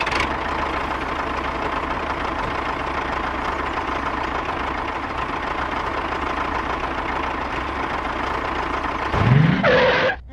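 Small electric motor running steadily with a thin, constant whine. About nine seconds in, a short, louder rising sound cuts across it.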